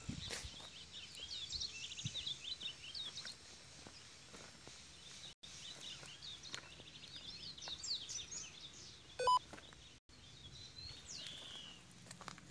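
Songbirds singing in runs of quick, high chirping notes, with a single downward-sliding call late on. A short pitched tone sounds briefly about nine seconds in and is the loudest sound.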